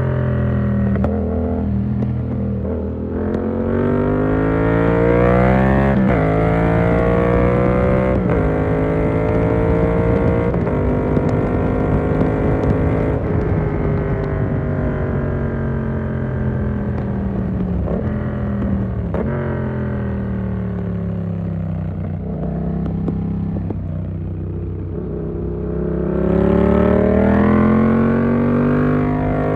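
Yamaha MT-07 2019 parallel-twin engine through an SC Project exhaust with the dB killer in, under way through the gears. It revs up with quick upshifts about six and eight seconds in and holds speed. It rolls off with shifts around eighteen and nineteen seconds, then revs up again near the end.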